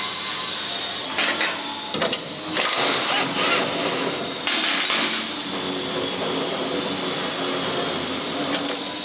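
Workshop clatter: several short bangs and scrapes of metal parts being handled, loudest in the first five seconds, over a steady hum.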